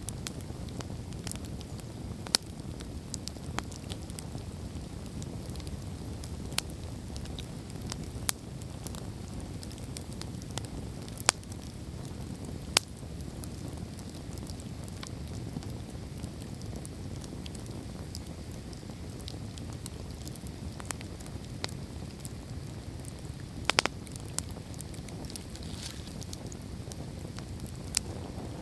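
Wood campfire burning: irregular sharp pops and crackles over a steady low rumble, with a few louder pops scattered through.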